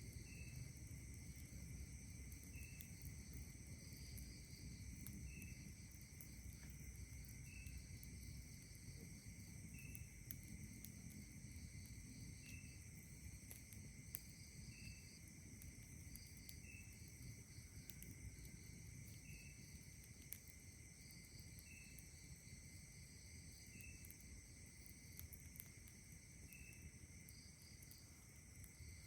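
Night insects trilling steadily in several high pitches, with a short chirp repeating about every two seconds and a higher buzz coming and going. Faint scattered clicks and a low rumble of breeze sit underneath.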